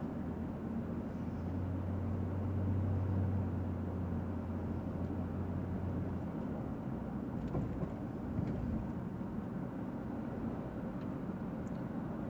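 Car cabin noise while driving: a steady low engine and road drone, heavier for the first six seconds and easing off about halfway through, with a few faint clicks.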